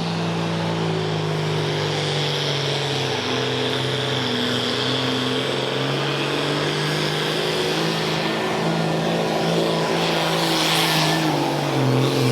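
Diesel pulling tractor engine at full throttle under load, a steady drone with a high hiss over it. There is a brief burst of noise about ten seconds in, and the engine note sags a little near the end as the tractor slows down the track.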